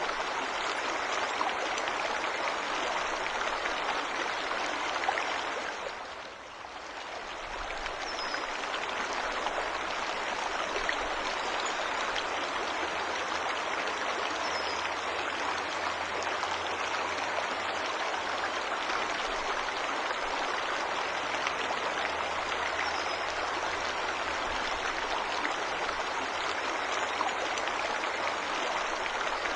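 Waterfall rushing steadily, an even wash of falling water. About six seconds in it dips briefly in level and swells back.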